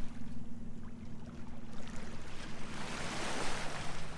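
Sailboat's inboard engine running at a steady drone while motoring, with a brief rush of water or wind hiss about three seconds in.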